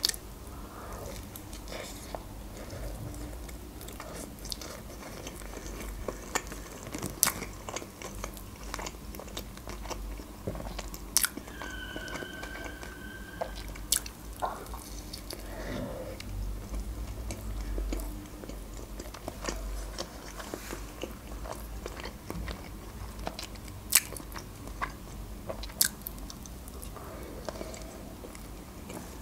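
Close-up eating of a burger: biting and chewing, with sharp wet mouth clicks and smacks scattered throughout.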